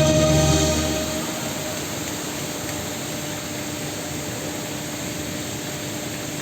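Show music ends about a second in, and a steady, even rushing noise with a faint hum follows.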